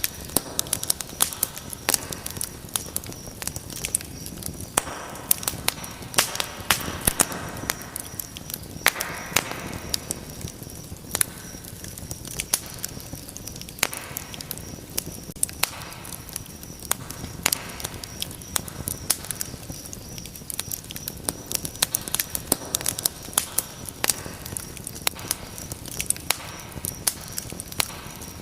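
Fire in a fireplace crackling, with frequent irregular sharp snaps and pops over a steady low rush of flame.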